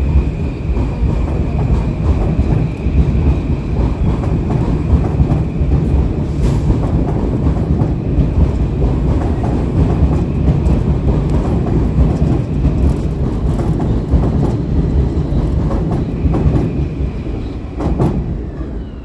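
Metro-North commuter train running through on the rails: a loud, steady rumble of wheels on track with a thin high tone above it, easing off near the end as the train draws away.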